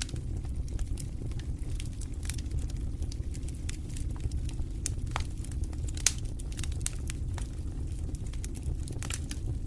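Wood fire crackling in a fireplace: a steady low rumble from the flames with frequent sharp pops and snaps, one louder pop about six seconds in.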